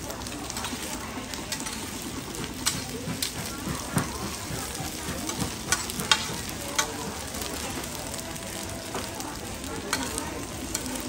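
Cubes of radish cake (chai tow kway) sizzling steadily in oil on a wide flat metal pan. Metal tongs and a spatula clink and scrape against the pan as the cubes are turned, with several sharp clinks scattered through.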